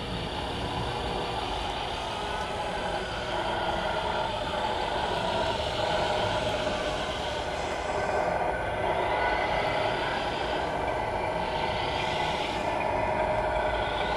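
Radio-controlled model trucks running, a steady truck-like mechanical sound that grows a little louder toward the end.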